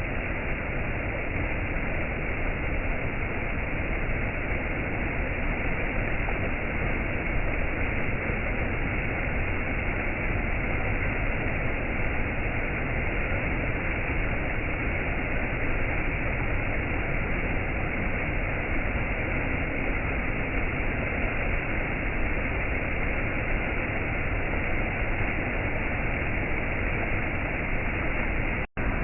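Steady, even rush of a waterfall, without change. It cuts out for a split second near the end and comes straight back.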